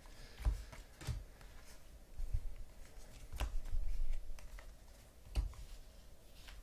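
Trading cards being handled: cards and packs sliding and shuffling, with a few sharp taps and light knocks on the table.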